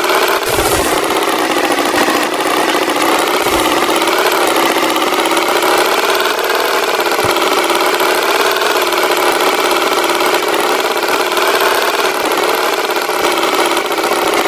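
Tractor engine running steadily with a slightly wavering drone, with a few dull low thumps.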